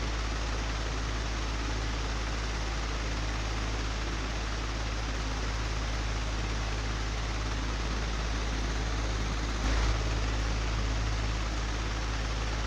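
Old, broken electric fan running steadily, a constant whooshing rush of air over a deep motor hum, with one brief low thump near the end.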